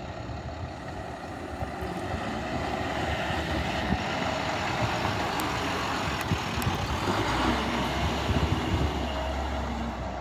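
A box truck's diesel engine running, with a deeper low rumble coming in about seven seconds in.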